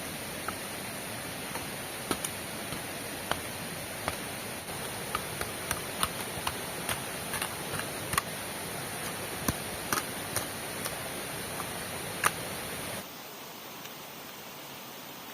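Heavy rain as a steady hiss, with irregular sharp ticks and taps scattered through it. Near the end it cuts abruptly to a quieter, steadier hiss.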